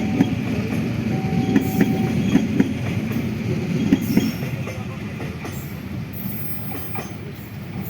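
A train passing close by, its wheels rumbling and clattering over the rail joints. The sound fades from about four seconds in as the train moves away.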